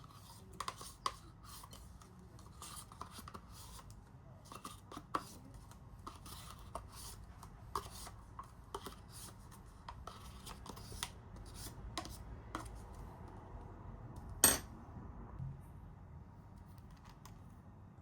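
Light clinks, taps and scrapes of kitchen utensils and dishes being handled, with one sharper knock about two thirds of the way through.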